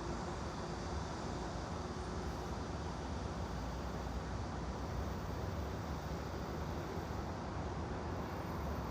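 Steady white-noise ambience with no distinct events, heaviest in the low end.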